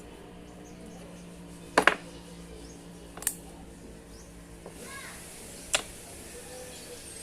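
Sharp metallic knocks or clinks from transmission parts being handled during reassembly: a quick double knock, then two single ones a second or two apart, over a steady low hum.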